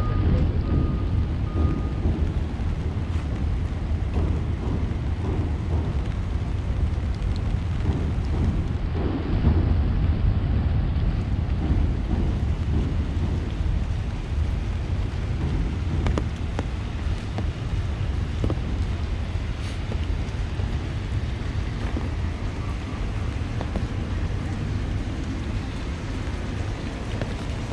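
Rainy city street ambience: steady rain hiss with a heavy low rumble underneath and a few faint ticks of drops.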